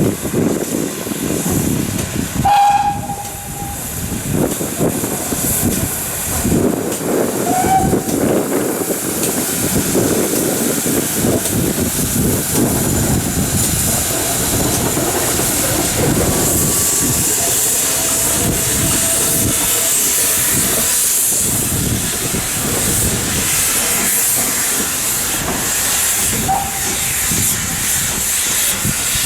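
Steam locomotive working: a run of exhaust beats under steady steam hiss, the hiss growing stronger about halfway through, with a few short faint whistle notes.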